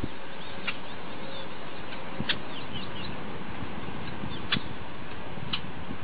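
Outdoor ambience: a steady background hiss with a few short, high bird chirps about halfway through and several sharp ticks spread through.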